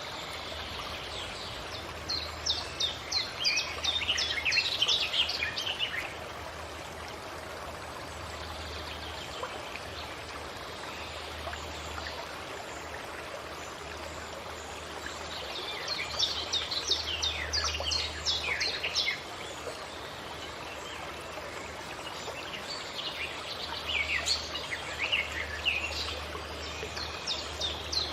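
A songbird singing three bursts of quick, falling high notes, each a few seconds long and roughly ten seconds apart, over the steady rush of a stream.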